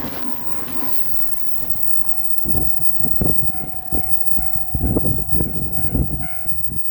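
JR Shikoku 8000-series electric limited express passing over a level crossing: from about two seconds in, its wheels thud and clatter irregularly over the rail joints under a steady mid-pitched tone.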